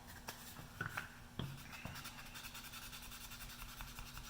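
Sandpaper rubbing by hand over the finish on a wooden shotgun stock, in soft, quick, even strokes. A few small taps and clicks come in the first couple of seconds.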